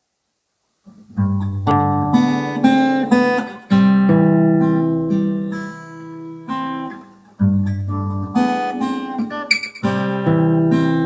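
Acoustic guitar playing a slow song introduction, starting about a second in: chords struck and left to ring over a bass note, changing every few seconds.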